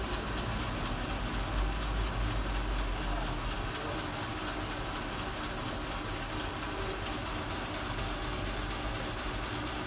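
ATM cash dispenser mechanism running steadily as it counts out and dispenses a stack of 40 bills.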